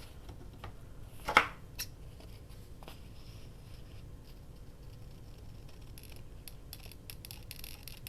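Scissors cutting: one loud snip about a second in and a smaller one just after, then faint clicks and light scratchy handling near the end.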